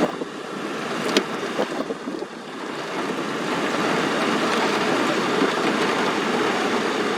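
Wind rushing and buffeting the microphone, a steady noisy roar that grows louder about three seconds in. A sharp click about a second in.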